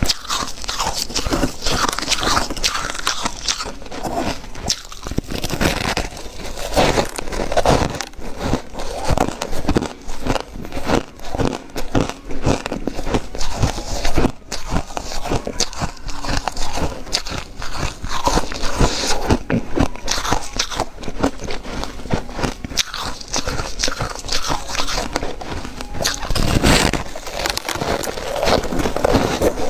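Close-miked ice eating: a person biting into and chewing crunchy ice in big bites, with dense crackling crunches throughout.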